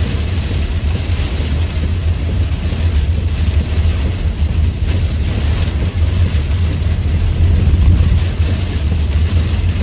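Torrential rain pouring steadily, with gusty wind buffeting the microphone in a deep, continuous rumble.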